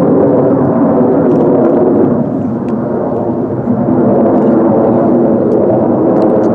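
Loud, steady aircraft engine noise from an aircraft flying over. It eases slightly about two seconds in, then builds again.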